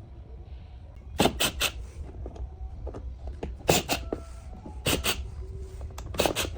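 Sharp knocks and clicks of hard parts and tools being handled, coming in quick pairs and threes every second or so, over a steady low rumble.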